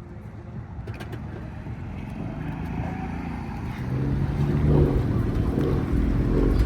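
A car engine running and drawing closer, growing steadily louder, with a deep low rumble building near the end.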